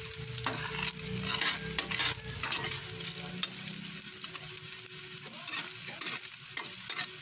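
Ground pork and sliced hotdogs sizzling in hot oil in a pan while being stirred, with a spatula scraping and clicking against the pan many times.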